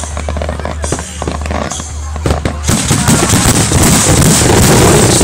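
Aerial fireworks going off: a few separate bangs, then a little over halfway through a dense barrage of rapid cracking explosions that is loudest near the end.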